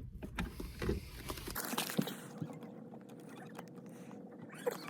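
Handling noise from hands working on small parts: scattered clicks, taps and crinkles, with a faint steady hum in the middle.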